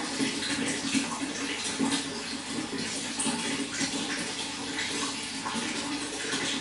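Running water: a steady rush with continual small splashes and gurgles.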